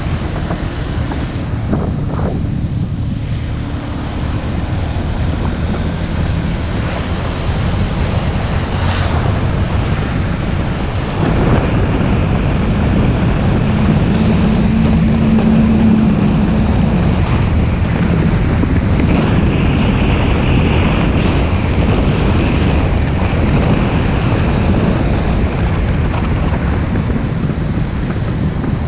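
Wind buffeting the microphone on a moving motorcycle, with the bike's engine running underneath. The wind noise is loud and steady throughout.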